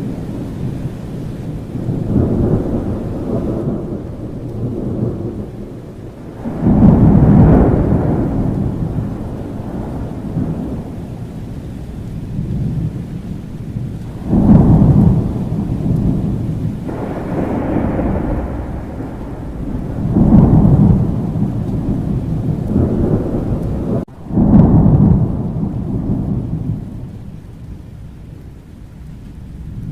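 Thunderstorm: steady rain under rolling thunder, one deep rumble swelling and fading after another every few seconds, with a brief sudden drop in sound just before the last loud roll.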